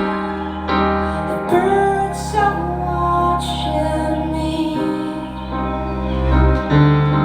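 Live music: a slow, gentle song with piano and a held, gliding melody line.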